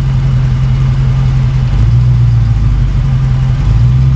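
Vehicle engine idling steadily close by. About two seconds in, its low note deepens and swells a little louder for a second or so.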